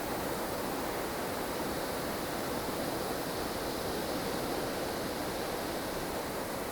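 Steady rushing wind of a blizzard, an even noise with slow, gentle swells and no gusts or knocks standing out.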